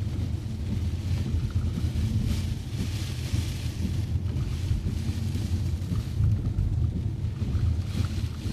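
Low, steady rumble of a car driving on a wet road, with the hiss of rain and tyre spray that rises and falls every second or two.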